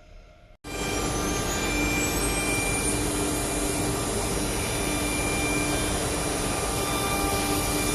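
CNC router running: loud, steady machine noise that starts abruptly just after the start, with a high whine that rises for about two seconds and then holds steady.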